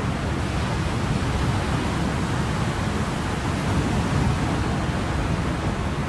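Ocean surf: a steady rush of waves with no distinct breakers, swelling slightly about four seconds in.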